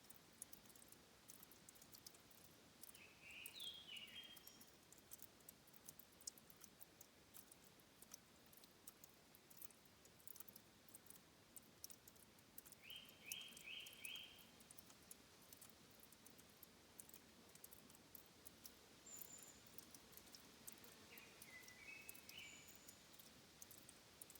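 Faint songbird calls: three short phrases of a few quick notes, the middle one a fast run of four notes, over quiet forest ambience with faint irregular high ticks.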